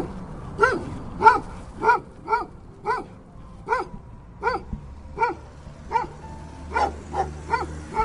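A dog barking over and over: short, evenly spaced barks, roughly one every half second to second, with a few coming closer together near the end.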